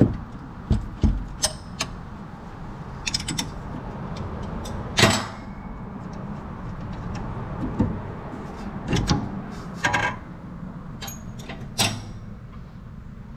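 Scattered metallic clanks and knocks of tools and parts being handled during work on a car's rear axle, some ringing briefly, over a steady low hum.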